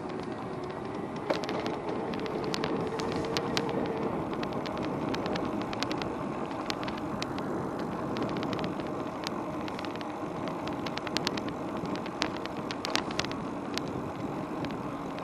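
E-bike being ridden: steady rolling and wind noise with frequent sharp clicks and rattles, and a faint whine that rises a little over the first few seconds.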